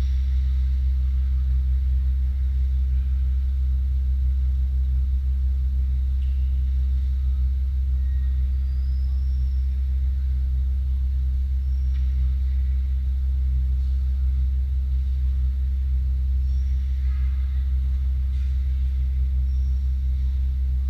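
Steady low hum that does not change, with faint short high squeaks now and then.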